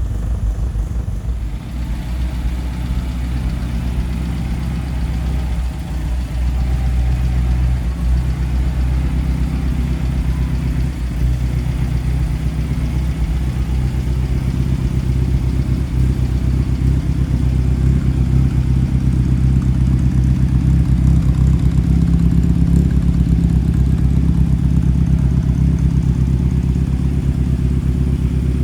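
1954 MG TF's four-cylinder engine idling steadily just after a cold start, its level rising a little twice partway through.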